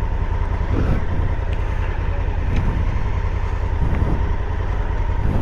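Honda Africa Twin CRF1000L's parallel-twin engine running steadily with a low rumble.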